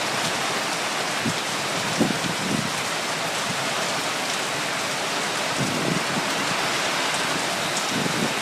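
Heavy downpour: a steady hiss of rain pouring onto surfaces, with a few nearer drops splashing now and then.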